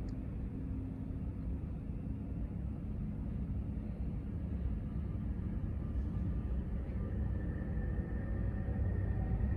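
Low, steady rumble of jet aircraft engines, slowly growing louder.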